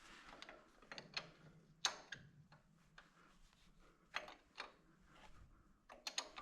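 Scattered metallic clicks and ticks of a wrench working a stiff bell-housing bolt loose on a tractor, at an uneven pace with short gaps between strokes.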